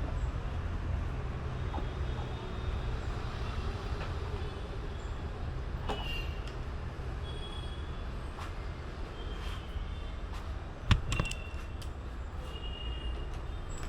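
Plastic motorcycle body panels being handled and fitted: scattered light clicks and taps, with one sharp knock about eleven seconds in, over a steady low rumble.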